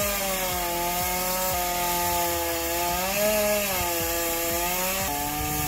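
Chainsaw running as it cuts wood, its engine pitch dipping and recovering under load.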